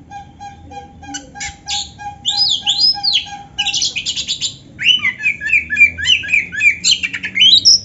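Oriental magpie-robin (kacer) singing. A steady train of short, evenly repeated low notes runs through the first half, then a fast, loud run of varied whistles and down-slurred notes follows.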